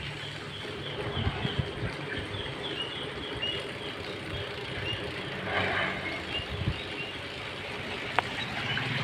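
Steady road and engine noise of travelling through traffic, with a run of short high chirps in the first few seconds and a sharp click near the end.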